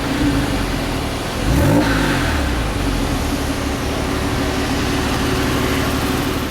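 Porsche 911 Carrera 4S (997) flat-six engine idling, blipped once about one and a half seconds in, its pitch rising and falling quickly before settling back to idle.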